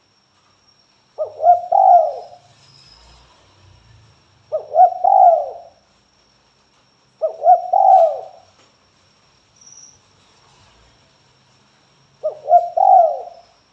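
Spotted dove (tekukur) giving its cooing call, four phrases of about a second each, spaced three to five seconds apart.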